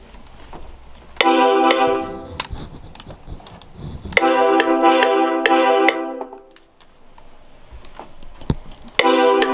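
Piano-like chords from a software instrument plugin, each chord struck in a quick run of repeated hits: a run about a second in, another around four seconds in, and a third starting near the end, with pauses between.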